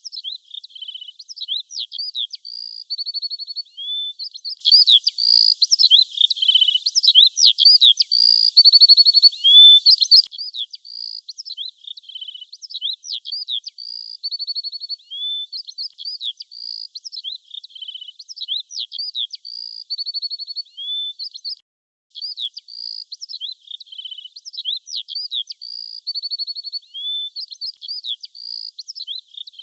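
Small songbirds chirping and twittering in quick, high-pitched phrases of short chirps, whistles and brief trills, the same pattern recurring; a louder, busier burst of calls from about four to ten seconds in.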